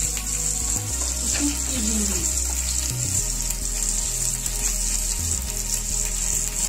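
Gizzard kebab skewers sizzling steadily in hot oil in a frying pan as they are turned.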